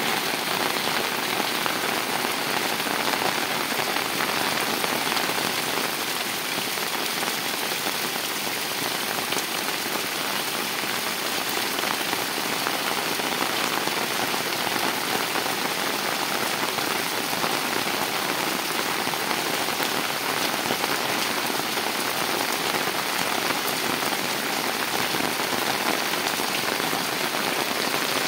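Steady rain falling, an even, unbroken hiss of drops that does not let up.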